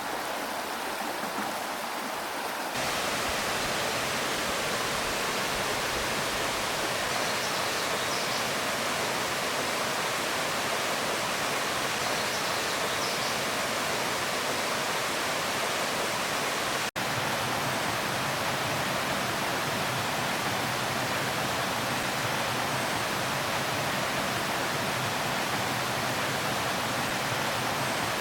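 Steady rush of creek water pouring over rocks at a waterfall or cascade. It jumps louder about three seconds in and drops out for an instant about two-thirds of the way through.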